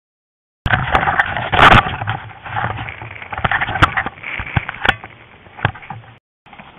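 Tornado catamaran under sail: rushing wind and water noise with scattered sharp knocks and clicks from the boat. It starts abruptly after a moment of silence and is loudest early on.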